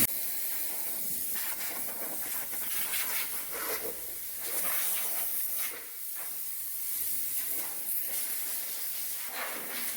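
Compressed-air blow gun hissing, blowing off the car, its rush rising and falling in loudness.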